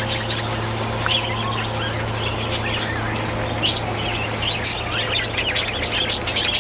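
Birds chirping and calling, many short overlapping chirps, over a steady low hum.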